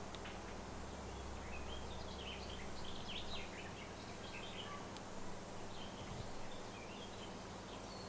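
Birds calling in short, high chirps, a scattered series starting about two seconds in, over a steady background hiss.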